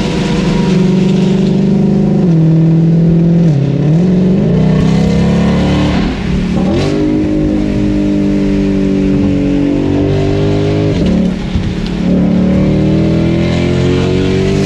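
Ford Shelby GT500's supercharged V8 with a loud aftermarket exhaust, running under way. The engine note holds steady, dips and recovers several times, and climbs over the last few seconds.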